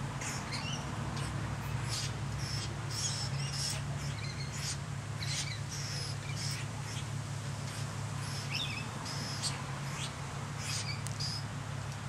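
Birds calling in many short, high chirps scattered throughout, over a steady low hum.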